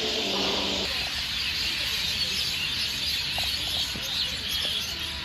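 Many birds chirping in a steady outdoor chorus, with a held pitched tone that stops about a second in.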